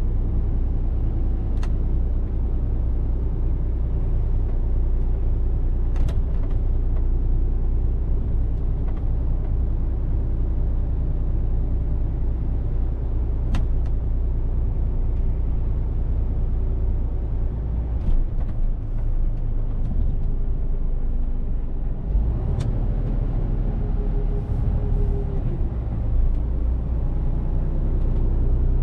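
Mercedes-Benz Actros truck driving: a steady low drone of diesel engine and road noise, with a few sharp clicks. About 22 seconds in the engine note drops and shifts.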